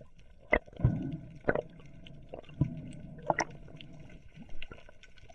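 Water sloshing and gurgling, with about six sharp clicks and knocks scattered through it.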